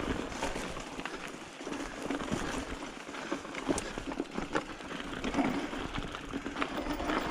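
Mountain bike riding over a dirt trail: tyres rolling with a steady noise and many small clicks and rattles from the bike over bumps.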